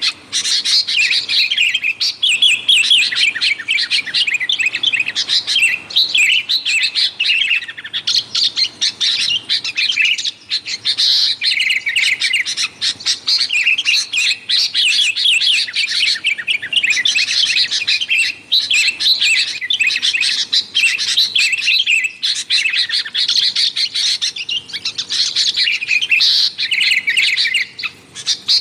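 Sooty-headed bulbuls calling noisily, a dense, unbroken stream of quick chattering notes with only brief pauses.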